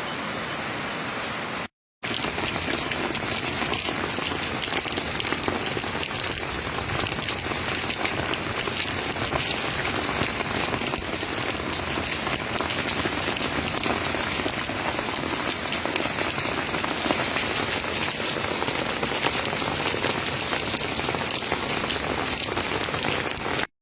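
Heavy rain mixed with hailstones pelting down, a dense steady hiss full of tiny pattering impacts.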